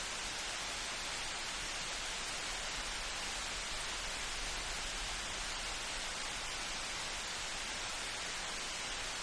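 Light rain falling as a steady, even hiss, with no thunder.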